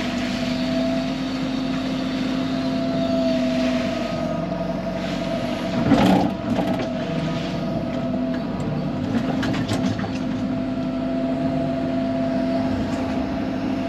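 Excavator engine running steadily, with a loud knock about six seconds in and a few lighter clicks after it.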